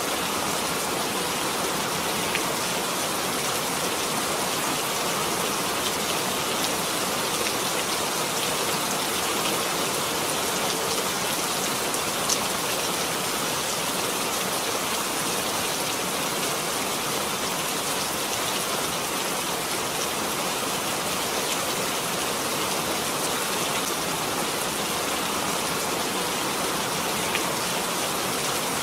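Steady rain: an even, unbroken hiss of rainfall with faint scattered ticks of individual drops.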